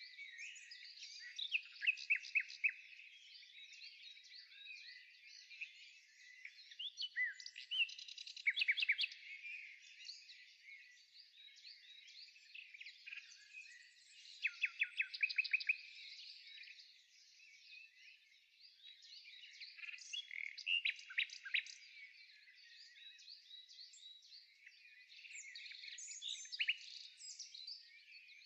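Songbirds chirping and singing, several calls overlapping, with louder clusters of rapid trills about 2, 8, 15 and 21 seconds in.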